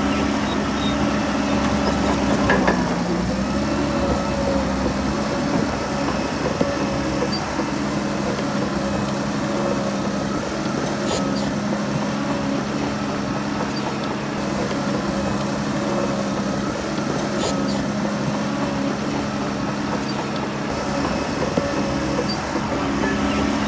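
Heavy diesel engine of earthmoving machinery running steadily. Its pitch dips briefly about three seconds in, and a few sharp knocks sound at intervals.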